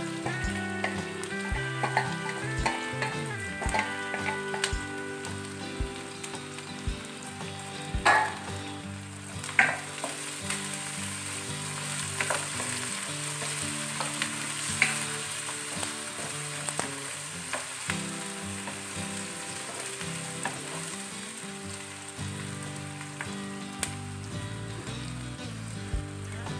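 Sliced onions, garlic, ginger and green chilli sizzling in hot oil in an aluminium kadai, stirred with a wooden spoon. A few sharp knocks stand out, about 8, 10 and 15 seconds in.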